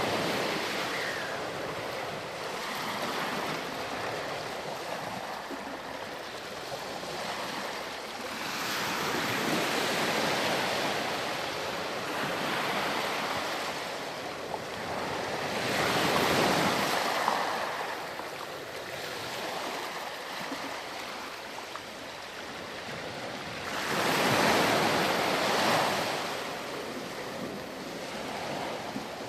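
Ocean surf washing onto a sandy beach: a steady wash of water, with three louder waves building and breaking about every seven or eight seconds.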